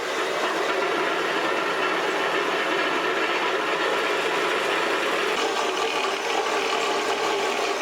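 Horizontal metal-cutting bandsaw running steadily as its blade cuts through the steel trolley frame.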